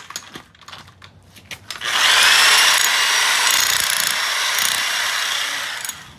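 A power tool runs loudly and steadily for about four seconds, starting about two seconds in and dying away near the end.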